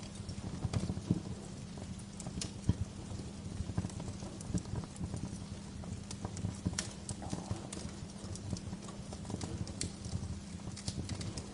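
Bonfire burning: a steady low rumble of flames with irregular sharp crackles and pops from the burning logs.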